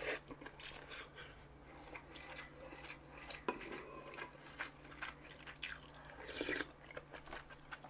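Close-miked chewing and wet mouth sounds of someone eating beef-intestine hotpot (gopchang jeongol), in irregular small clicks and smacks, with a sharp click right at the start.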